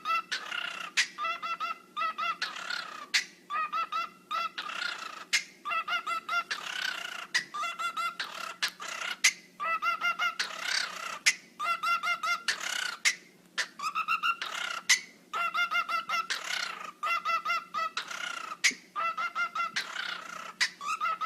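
A bird's harsh, honking calls in rapid stuttering bursts, pulsing with sharp clicks in between, so that they sound like a dubstep wobble.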